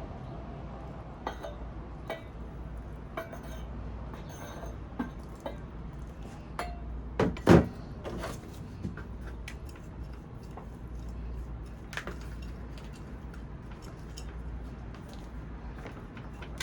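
Light clinks and knocks of hard objects being handled, scattered and irregular, with one louder knock about seven and a half seconds in, over a steady low rumble.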